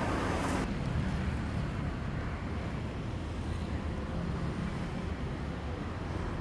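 Wind rumbling on a phone microphone over outdoor street ambience. The hiss in the high end drops away under a second in.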